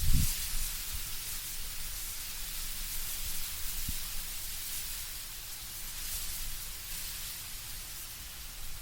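Wind blowing through autumn trees, the leaves rustling as a steady hiss, with a brief low rumble of a gust right at the start.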